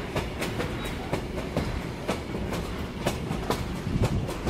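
Passenger train coach rolling along the track, heard from inside at the window: a steady low rumble with sharp wheel clicks over the rail joints, about two or three a second.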